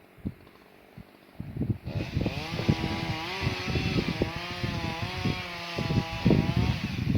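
Two-stroke chainsaw cutting firewood. For the first two seconds there are only low knocks and handling noise. About two seconds in the saw revs up to full throttle, and its pitch wavers slightly under load as it cuts. It eases off near the end.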